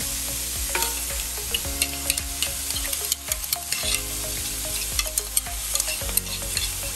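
Chicken, tomato and onion sizzling as they fry in a metal wok, with a wooden spatula stirring and scraping through them in irregular clicks and knocks.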